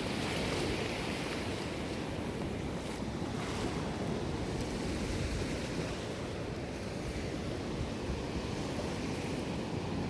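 Sea surf washing on a beach: a steady rush of breaking waves, a little louder in the first second, with wind noise on the microphone.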